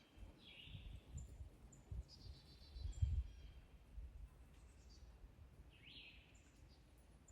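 Wild birds singing outdoors: one call sweeping down in pitch, heard twice about five and a half seconds apart, with short high chirps and a brief trill between. Irregular low rumbles underneath, the loudest about three seconds in.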